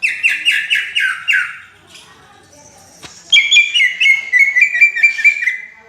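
Cucak ijo (greater green leafbird) singing loudly: a run of about seven falling notes in the first second and a half, then after a pause a faster, chattering run of notes from about three seconds in until near the end.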